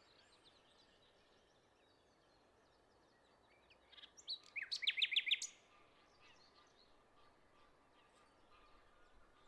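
Parrots chirping: a quick run of high chirps about four to five and a half seconds in, with faint scattered calls before and after.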